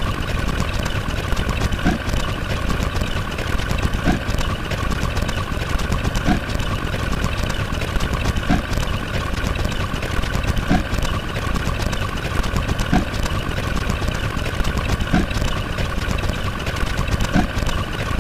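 Steady engine-like rumble, as of an engine idling, with a short blip repeating about every two seconds.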